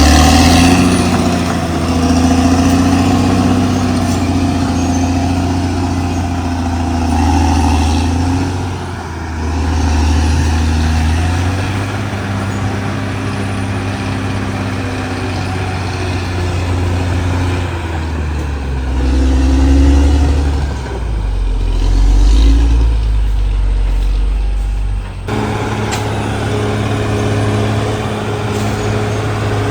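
Cat D6R XL bulldozer's diesel engine working under varying load, its note rising and falling every few seconds as the machine pushes and eases off. The sound changes abruptly to a steadier engine note about 25 seconds in.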